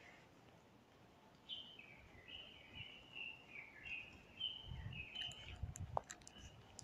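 Bird song: a run of quick chirping and warbling notes, faint, with a few low thumps and a click near the end.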